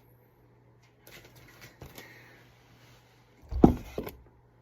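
Faint rustling, then a louder soft thump about three and a half seconds in and a smaller one just after, as of something being moved or set down by hand.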